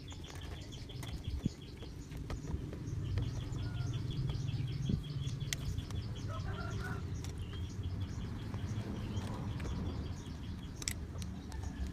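A bird's rapid chirping trill, about seven high chirps a second at one pitch, in three runs of about two seconds each, over a low steady hum.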